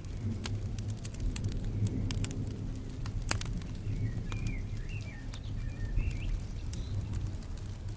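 Fireplace crackling with frequent sharp pops over a steady low rumble of rain and thunder. A bird chirps several times about halfway through.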